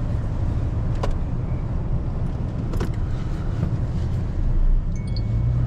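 Vehicle engine and road noise heard from inside the cab while driving, a steady low rumble with a couple of short clicks.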